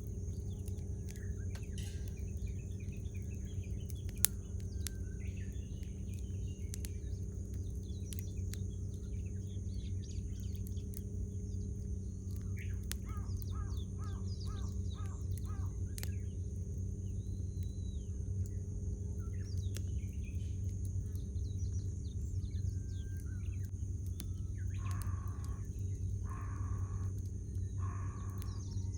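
Wood campfire crackling with scattered sharp pops over a steady low rumble, while small birds chirp and sing. Near the end a crow caws three times.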